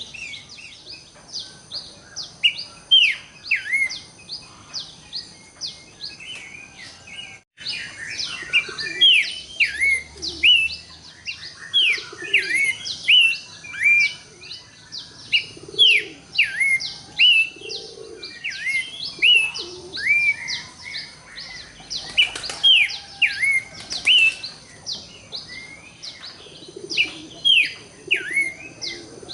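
Horsfield's babbler (pelanduk semak, or cingcoho) singing: a rapid, continuous run of short, sharply falling whistled notes, several a second. About a third of the way in there is a brief break before the song carries on. A faint, steady high tone runs behind it.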